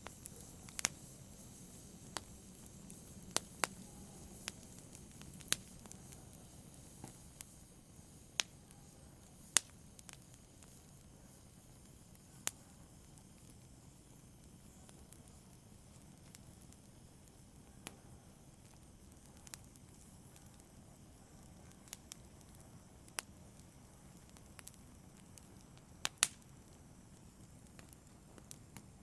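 Wood fire in a fireplace crackling: sharp, irregular pops every second or few over a faint low hiss, the loudest pops coming about ten seconds in and again late on.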